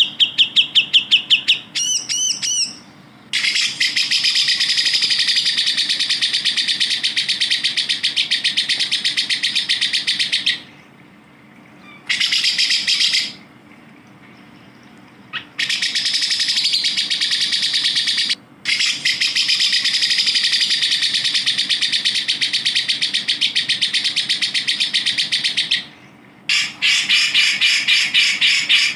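Cucak jenggot (grey-cheeked bulbul) singing in long, fast trills of rapidly repeated high notes. Each trill lasts several seconds, with short pauses between them.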